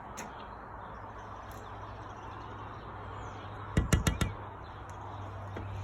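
Faint bird chirps over steady outdoor background noise, with a quick cluster of four or five sharp knocks about four seconds in.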